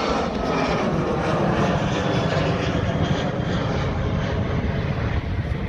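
Jet airliner's engines at full takeoff power as it climbs away just after rotation: a loud, steady rumble with tones gliding down in pitch early on as it passes.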